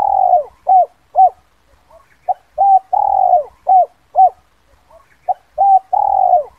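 Spotted dove cooing its 'kuk 2' song: a phrase of short, rounded coos around one long, falling coo, repeated about every three seconds, twice over.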